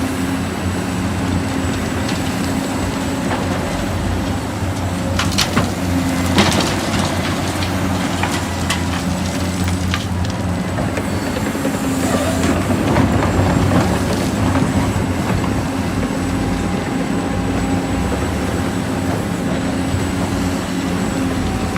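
Radio-controlled model dump truck running with a steady low engine-like drone, and a few sharp knocks about five to seven seconds in.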